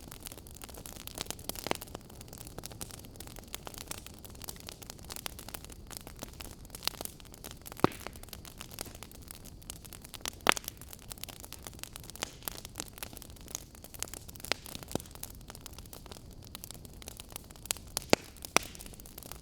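Wood fire crackling in a fireplace: a steady hiss with frequent sharp pops, the loudest about eight, ten and eighteen seconds in.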